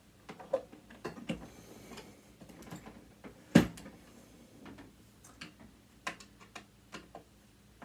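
Irregular clicks and taps of a screwdriver and small metal parts as a sewing machine motor is taken apart, with one sharper knock about three and a half seconds in.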